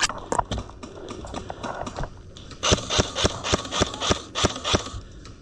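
Footsteps of a player moving quickly on foot. The first half holds scattered scuffs, then about halfway in comes a steady run of sharp steps at about four a second, which stops shortly before the end.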